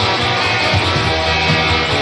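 Rock band recording with a down-tuned electric guitar, a Fender Jazzmaster, played along through distortion; steady, dense instrumental passage with drums and bass, no vocals.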